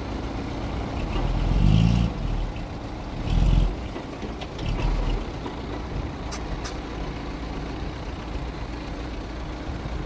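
Mitsubishi G2 bulldozer's diesel engine running steadily, swelling louder twice in the first four seconds as it works. Two sharp clicks come a little after the middle.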